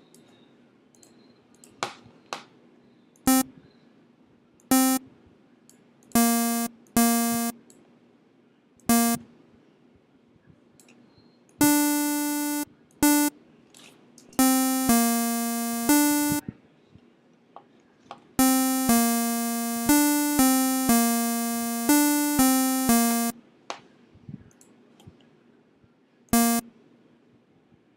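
Notes played on the Massive software synthesizer: single short stabs and notes held for a second or two, with a bright, buzzy tone, switching between two nearby pitches with gaps in between.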